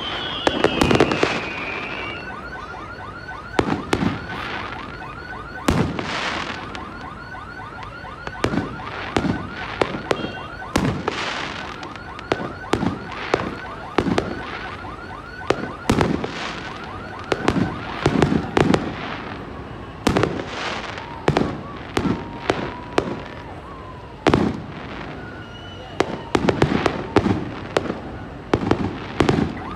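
Aerial fireworks bursting: a steady run of sharp bangs at irregular spacing, some coming in quick clusters. Underneath, a wavering whistle sounds at the very start, and a high tone repeats several times a second through the first half.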